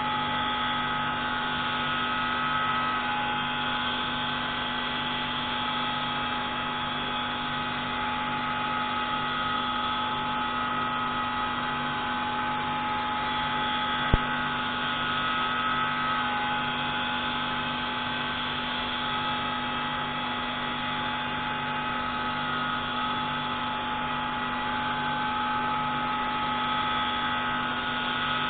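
Pneumatic grinding tool running steadily as it grinds the intake valve of a MAK 601C marine diesel engine. The whine holds several steady tones and pulses evenly in the low end, with a single sharp click about halfway through.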